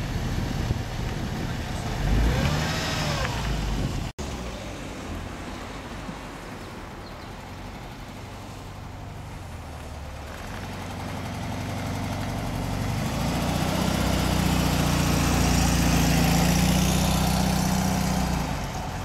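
A Porsche 911 Carrera cabriolet's engine running as it pulls away in the first few seconds. Then a classic Volkswagen Beetle's air-cooled flat-four engine drives past, its steady drone growing louder in the second half and peaking a few seconds before the end.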